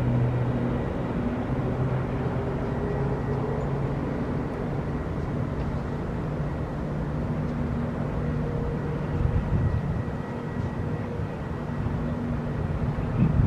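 Steady rumble and whine of a Boeing 777-300ER jet airliner during pushback and engine start, with a tone rising slowly in pitch over the first few seconds and a brief louder surge at the very end.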